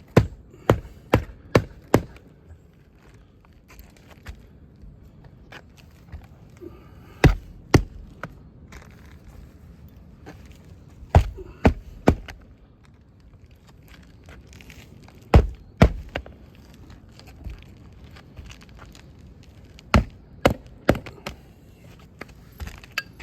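Hammer driving roofing nails back in through asphalt shingles: sharp strikes in short groups, five quick blows at the start, then sets of two or three every few seconds.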